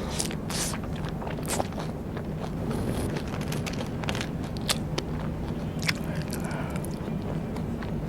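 Close-miked biting and chewing of Vietnamese rice paper snacks: irregular crisp clicks and crackles, over a steady low hum.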